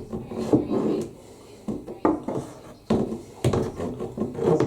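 A thin rod scraping and knocking inside a condenser tumble dryer's lint-clogged air passage, pushing out caked fluff. The strokes are irregular, with several sharp knocks between stretches of rubbing.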